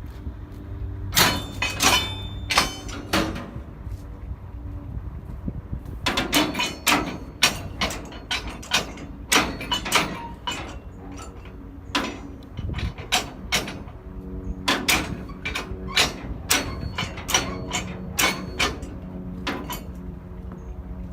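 Railcars being shunted: a long run of sharp metallic clanks and knocks, some ringing briefly, coming in clusters. A steady low hum joins about two thirds of the way in.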